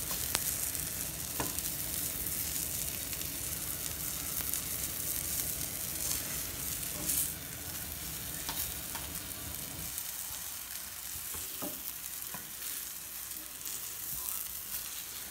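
Battered fish pieces sizzling as they fry in a nonstick frying pan, with a spatula scraping and clicking against the pan now and then as the pieces are moved and turned.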